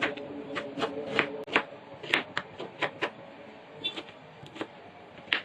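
Kitchen knife chopping on a cutting board: irregular sharp taps, about two a second.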